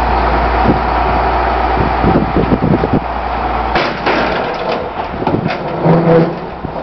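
Garbage truck's engine running as it backs up, with knocks and clatter; the low rumble drops off about four seconds in, and a short pitched tone sounds near the end.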